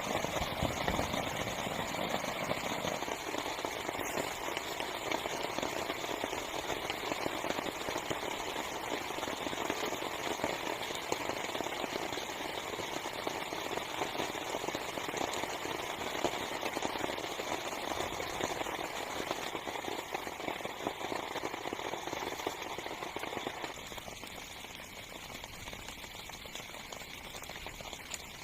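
Heavy rain falling on a small tent's fabric: a dense, steady hiss of countless drop strikes that eases a little about 24 seconds in.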